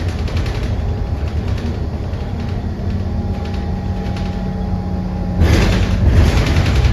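Low steady rumble inside a moving public-transport vehicle, with a faint running hum. About five and a half seconds in, a burst of hissing noise rises for just over a second.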